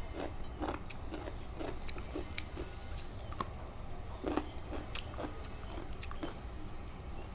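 Close-miked chewing of chicken biryani: soft, wet mouth sounds repeating about twice a second, with a few sharp little clicks in between.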